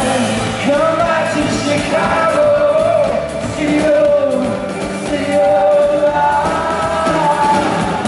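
Live band music: a bending, gliding melody line over sustained chords and a steady bass.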